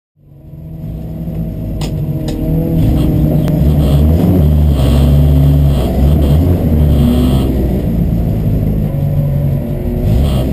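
Peugeot 205 1.3 Rallye Group A four-cylinder race engine running at the start line, held above idle and blipped so its pitch rises and falls, heard loud from inside the cabin. The sound fades in over the first few seconds, with two sharp clicks about two seconds in.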